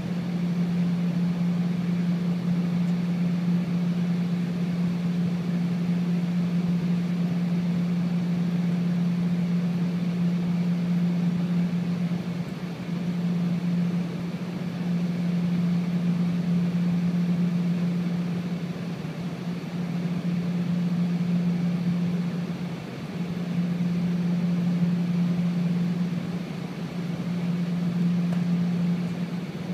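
Steady low drone of an Embraer ERJ 135's Rolls-Royce AE 3007 turbofan engines heard inside the passenger cabin, with an even rushing noise over it. The level swells and eases slightly every few seconds, but the pitch stays constant.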